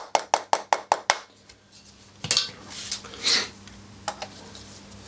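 Small metal hammer tapping rapidly on the exhaust baffle, about five sharp metallic taps a second, stopping about a second in, then a few lighter clinks of metal parts being handled.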